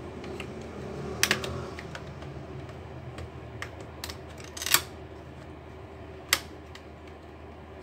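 Hands working on a laptop's plastic casing: a few sharp plastic clicks and knocks, a double click about a second in and louder ones near the middle and past six seconds, over a steady low hum.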